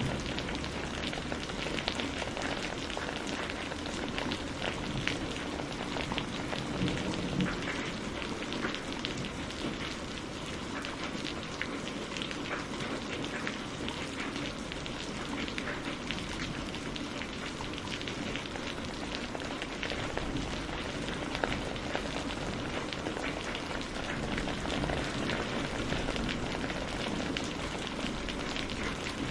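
Steady rain falling, a dense patter of individual drops over an even hiss of downpour.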